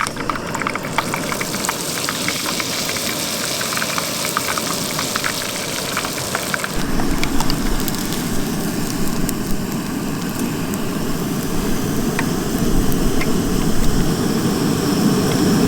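Beer-battered trout pieces frying in hot oil: a steady sizzle with scattered crackling pops. From about seven seconds in a low rumble joins underneath.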